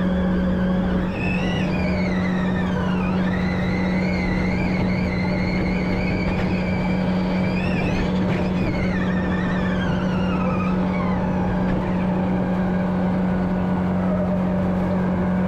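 Audi RS Q e-tron Dakar rally car driven hard, its electric drive whine falling and rising several times with speed over a steady low drone and dense tyre and gravel noise.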